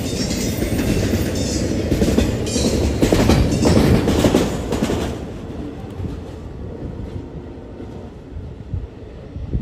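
Intermodal freight train's container well cars rolling past, their wheels clattering over the rail joints. The sound fades after about five seconds as the end of the train passes and recedes.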